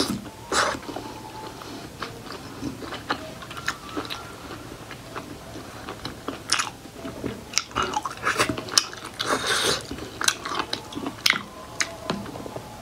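Close-miked chewing of steamed buffalo-meat momo dumplings, with many short wet clicks and smacks of the mouth.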